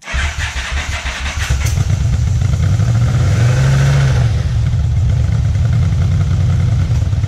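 Yamaha Vmax's V4 engine running, with a short rise and fall in revs about three to four seconds in.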